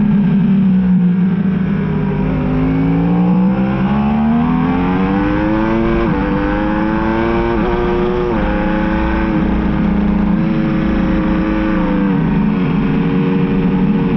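Yamaha R1 sport bike's inline-four engine at racing speed. Its pitch falls over the first couple of seconds, then climbs steadily under acceleration. Brief sharp steps in pitch come around six and eight seconds in, then the note holds high and eases slightly near the end.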